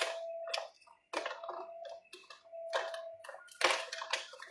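Irregular clicks and knocks of kitchen handling, about eight or nine of them, with a steady faint hum underneath.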